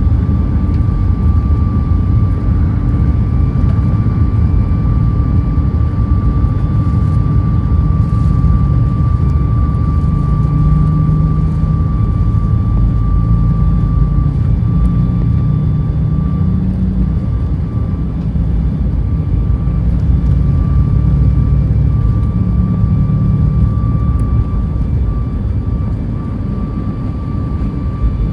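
Boeing 737 MAX 8 airliner with CFM LEAP-1B engines: a loud, steady low rumble with a thin, steady whine above it, easing slightly near the end.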